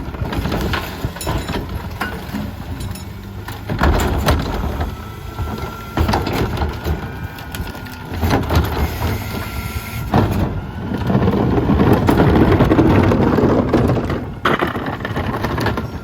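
Mack MRU rear-loader garbage truck with a McNeilus body at work: the engine runs while knocks and clatter come from the hopper. A faint steady whine sounds partway through, and a louder, denser stretch of grinding noise comes later as the packer compacts the load.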